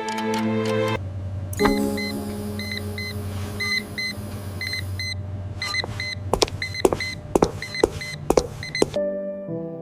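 Clinical equipment sound effects: a steady electric whirr with short, high electronic beeps, mostly in pairs, followed by a run of sharp clicks a few seconds in.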